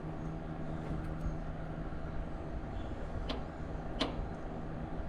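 A steady low hum with rumble underneath, and two sharp clicks about a second apart past the middle.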